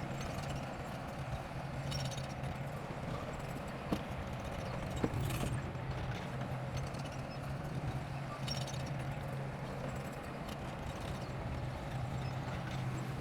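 Bulldozer's diesel engine running with a steady low drone, with bursts of metallic clicking and clatter every few seconds and two sharp knocks in the middle.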